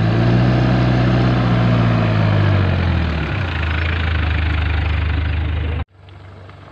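Car engine running while driving, its note rising and then easing off, cut off abruptly near the end.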